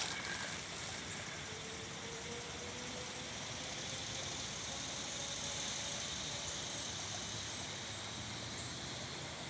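A vehicle passing: steady rushing tyre noise that swells slightly midway, with a faint engine hum that slowly rises in pitch.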